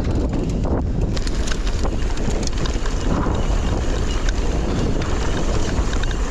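Wind buffeting the microphone: a steady, rumbling rush with scattered light clicks and rattles.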